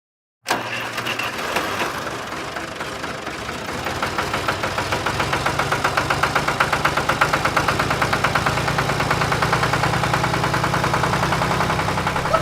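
Small engine of a DIY miniature tractor starting up suddenly and running with a quick, even beat that grows a little louder over the first few seconds.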